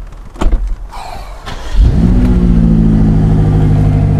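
A short thump near the start. About two seconds in a car engine starts, its pitch rising briefly before it settles into a steady run.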